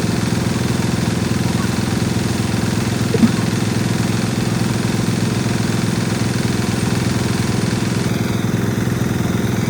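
An engine running steadily at one unchanging pitch, with a single short click about three seconds in.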